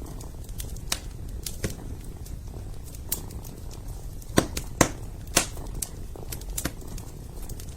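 Wood fire crackling in a fireplace, with irregular sharp pops, the loudest a few seconds in, over a kitten's steady low purring.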